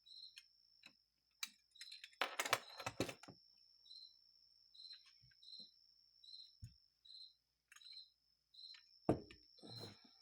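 A cricket chirping steadily, roughly twice a second, over a thin high steady tone. Two bursts of clicking and clattering from small carburetor parts being handled are the loudest sounds, a couple of seconds in and again near the end.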